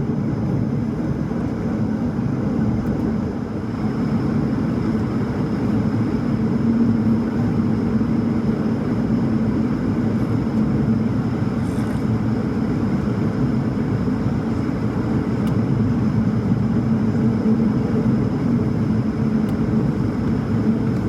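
Steady drone of an Airbus A220-300's Pratt & Whitney geared turbofan engines and airflow, heard inside the passenger cabin, with a constant low hum and a faint high whine.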